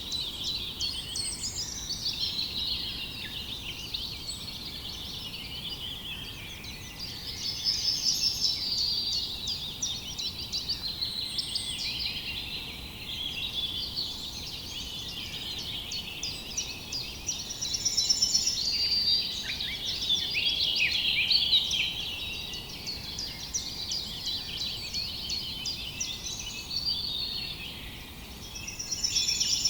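Many small songbirds chirping and singing at once, a continuous chorus of overlapping quick chirps and trills that swells louder a few times.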